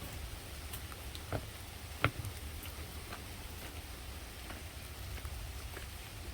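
Heavy rain falling steadily, with scattered drips ticking, the sharpest about two seconds in.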